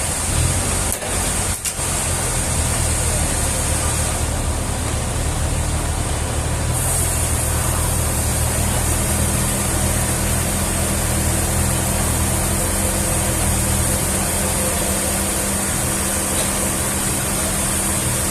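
An engine running steadily, with its note shifting a few times.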